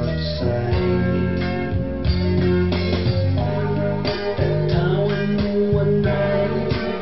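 A Thai song played from a vinyl record: a guitar-led instrumental passage with sustained notes and regular percussion strokes.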